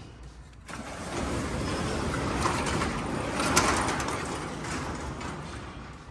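Large shop door being opened by hand: a long sliding noise that builds over the first second, is loudest a little past the middle, and fades out near the end.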